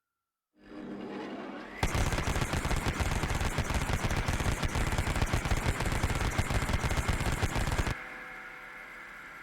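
Automatic weapon firing one long, rapid, continuous burst of about six seconds that cuts off suddenly and leaves a fading hum. A softer lead-in sound starts about a second before the firing.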